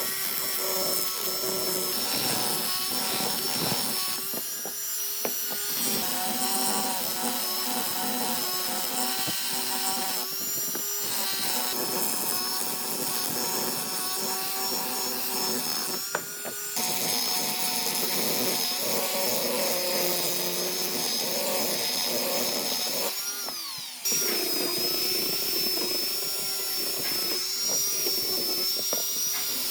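An electric power tool working wood, running with a steady whine over the grinding noise of the cut. The sound breaks off and resumes abruptly a few times, each time at a slightly different pitch.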